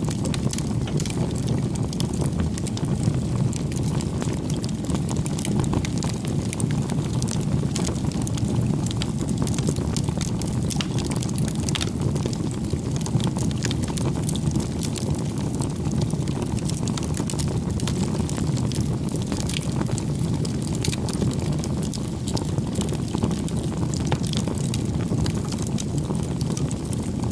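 Wood fire crackling: a steady low rumble of burning with frequent small, irregular pops and snaps.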